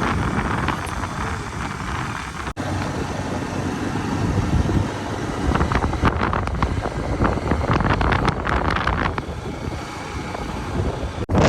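Wind buffeting the microphone on a moving motorbike, a gusty rumble with road noise underneath. It breaks off abruptly twice, once about two and a half seconds in and again near the end.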